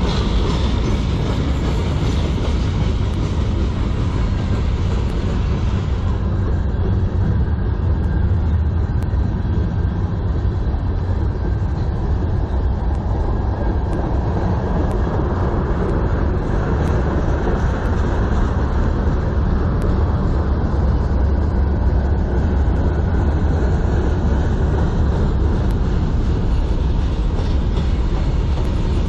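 Freight train cars rolling past on the rails: a steady rumble of steel wheels on track from a manifest train of flatcars, tank cars and gondolas.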